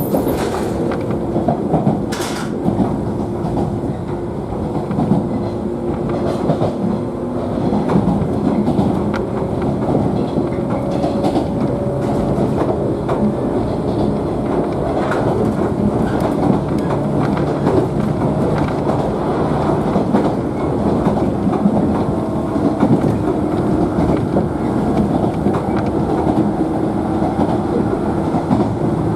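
Interior of a JNR 113 series electric multiple-unit motor car running at speed between stations: a steady rumble of wheels on rail with clickety-clack over the rail joints.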